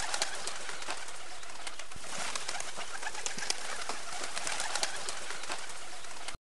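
Pigeons cooing and calling over a steady, busy hiss scattered with short clicks; the sound cuts off suddenly near the end.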